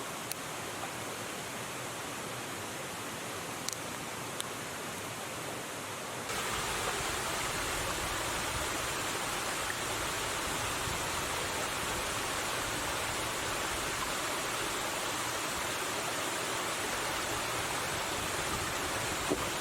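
River water rushing steadily. About six seconds in it becomes suddenly louder and deeper, and a few faint clicks sound before that.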